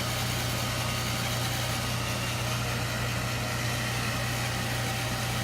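Handheld dryer running steadily on high, a constant motor hum under a whoosh of blown air, drying chalk paste on a canvas.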